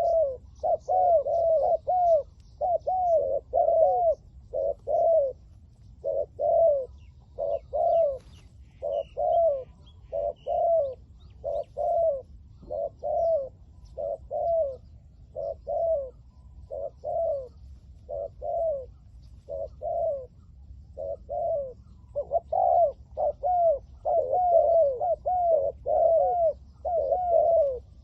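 Spotted doves cooing: phrases of two to four arched coos, one phrase after another with short gaps between them, almost without pause.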